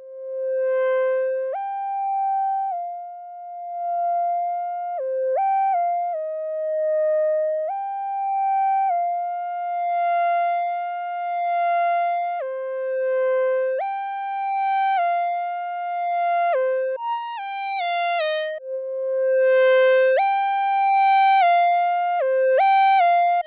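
Surge XT software synthesizer playing a single-voice lead line: held notes stepping between a few pitches, each swelling slowly up and down in volume. About two-thirds of the way through comes a quick flurry of short notes with a brief burst of hiss.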